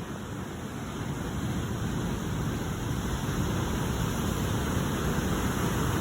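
Ocean waves breaking and washing ashore, a steady rushing noise that swells over the first few seconds and then holds.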